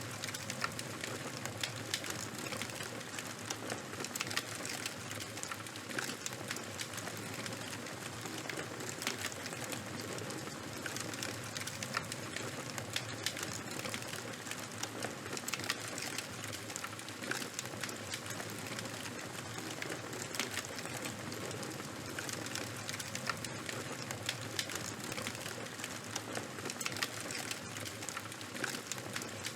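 Charcoal and wood fire burning steadily, with a continuous soft hiss and frequent small crackles and pops.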